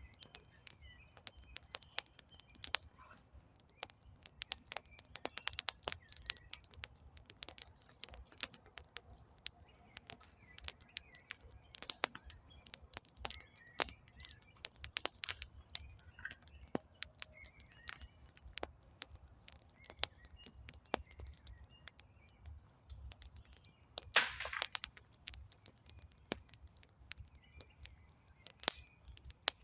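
Wood campfire crackling, with irregular sharp pops and one louder crackling burst about 24 seconds in. Birds chirp faintly in the background.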